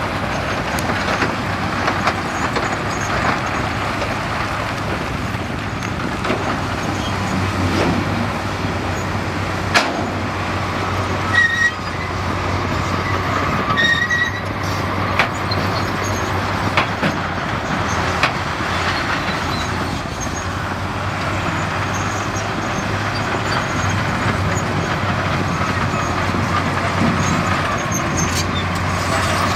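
Crawler bulldozer's diesel engine running steadily, with track clatter and scattered sharp knocks of rock, and a couple of short squeaks about midway.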